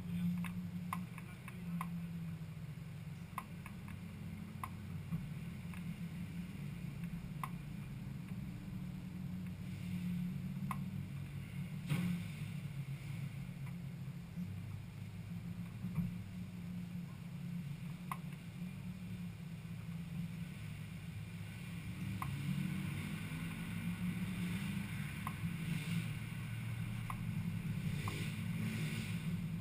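Ford Cortina race car's engine idling steadily, heard from inside the stripped-out cabin, with scattered light ticks. The engine note gets slightly louder in the last third.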